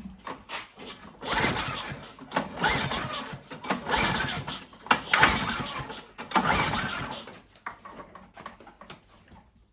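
Lawn mower's recoil pull-start yanked about five times in quick succession, each pull a second-long whirring crank of the engine, which does not catch. The engine is on full choke, with ether and a little fuel in it, for its first start attempt in years.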